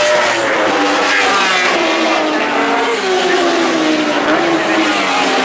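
Several racing superbike engines at high revs at once, their pitch rising and falling as the bikes race past.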